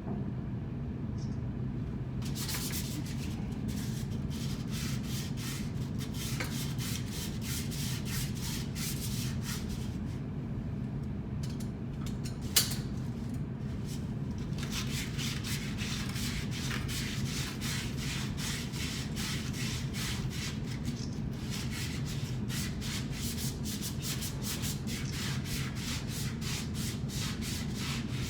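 Hand sanding in quick back-and-forth strokes, a few strokes a second, with a pause in the middle and one sharp click about twelve seconds in, over a steady low machinery hum.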